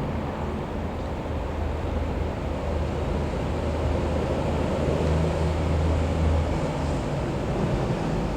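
Sikorsky S-92A search and rescue helicopter flying past, its rotor and turbine drone building up and easing off about two-thirds of the way through.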